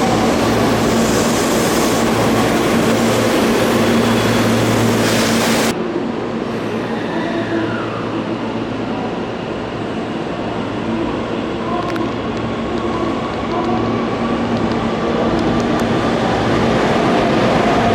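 Electric commuter trains at a station platform. A train runs loudly, then the sound cuts off abruptly to a quieter station bed. Near the end a motor whine rises in pitch as a train accelerates.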